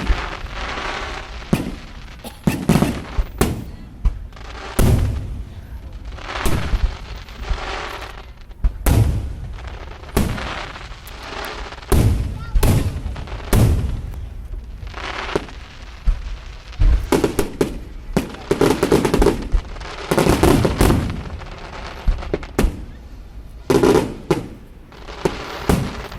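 Aerial firework shells bursting one after another, each sharp boom trailing off in a rumbling echo, with denser volleys of bangs in the second half.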